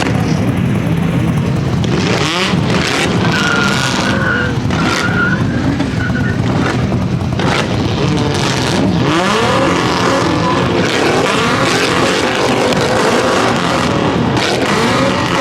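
Car engine revving hard up and down with tyres squealing in a burnout, loud throughout; a high tyre squeal stands out about four to five seconds in.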